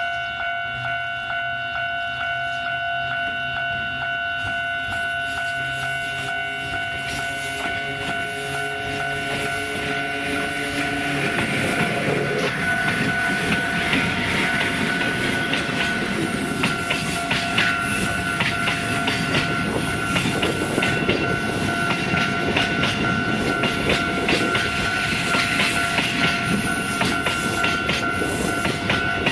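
Freight train of cement tank wagons hauled by an electric locomotive passing close by. The locomotive's low motor hum approaches, then from about 11 seconds in the wagons roll past, loud, with a steady clatter of wheels over rail joints and points. A steady high whine runs underneath throughout.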